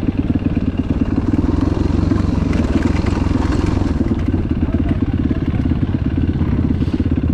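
Enduro dirt bike engine running at low revs with a steady, close-spaced firing beat, picking up a little between about two and four seconds in.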